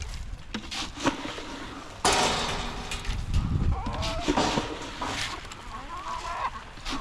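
Loud, drawn-out bleating from goats or sheep. The first call starts suddenly about two seconds in and is followed by more wavering calls, with short knocks and rustling throughout.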